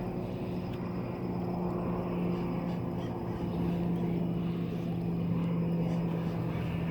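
A steady low mechanical drone from an engine or motor, with a clear hum whose pitch sinks slightly about halfway through.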